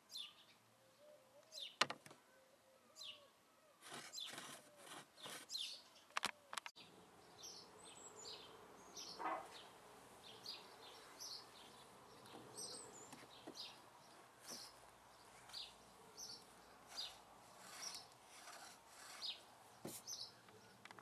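Faint birdsong: many short, high chirps repeating through the whole stretch. A few sharp clicks stand out above it, the loudest about two seconds in and again about six seconds in.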